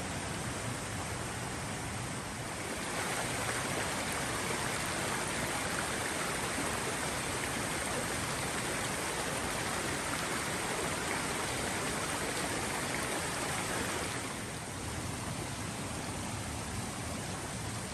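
Steady rush of a flowing creek, growing louder and fuller from about three seconds in and easing back at about fourteen seconds.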